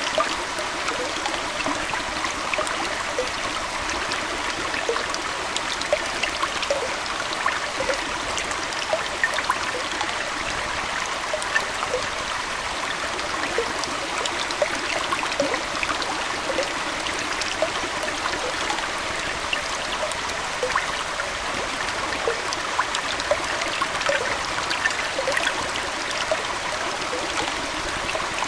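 Aquarium water trickling steadily, with many small bubbling plinks scattered through it.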